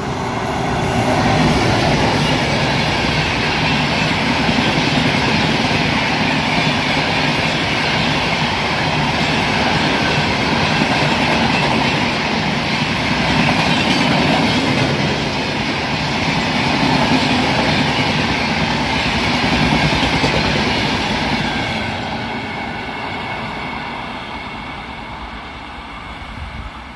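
Express passenger train hauled by an electric locomotive passing at speed: a loud, steady rush of the coaches going by with wheels clattering over the rails, easing off about 22 seconds in as the end of the train goes past.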